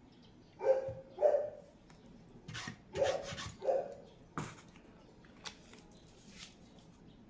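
A dog barking: two pairs of short barks about two seconds apart, with a few sharp knocks between them.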